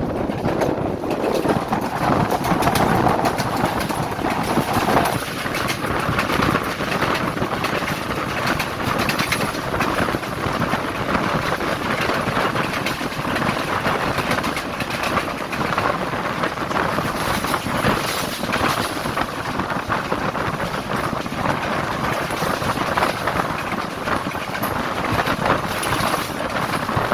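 Express train hauled by a Sri Lanka Railways M6 diesel locomotive running along the line: a steady rush of wheel and track noise with frequent short clanks.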